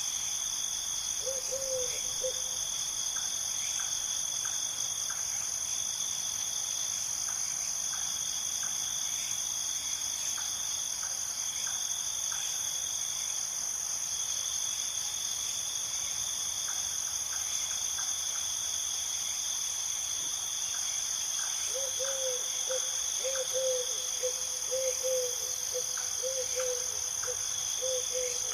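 A steady chorus of crickets chirring at two high pitches. There is one short low call about a second in, and a run of low notes repeated about twice a second over the last few seconds.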